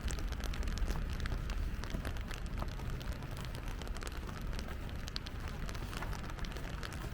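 Rain falling on a city street, with many scattered ticks of individual drops over a steady low rumble.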